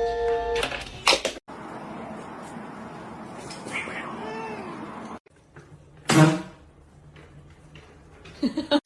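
Domestic cat meowing: a faint rising-and-falling meow about four seconds in, then a louder, short meow just after six seconds.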